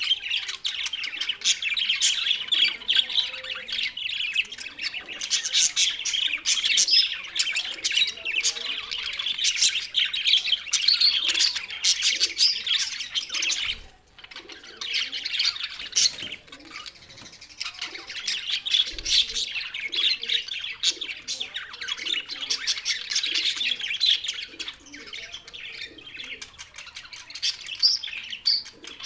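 Budgerigars chattering: a dense, continuous run of fast chirps, warbles and squawks. It thins out briefly about halfway through, then picks up again.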